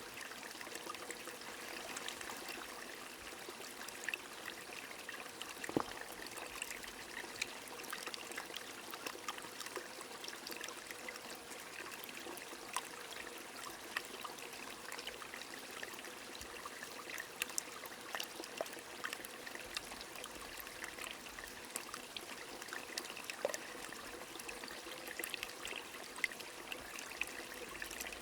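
A small stream running and trickling steadily, with rain drops ticking throughout and one sharper drip about six seconds in.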